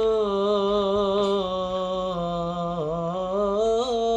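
A man singing unaccompanied in Arabic, holding one drawn-out syllable in a long melisma. The notes are sustained, with wavering, ornamented turns in pitch and no break.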